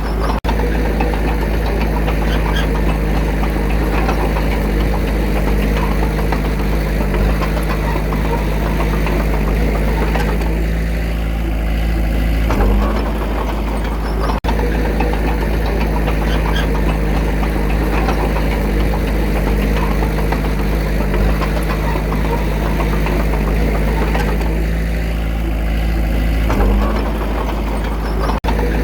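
Diesel engine of a Komatsu D21A bulldozer running steadily at work, with a diesel knock. Its note shifts briefly twice, about halfway through and again near the end.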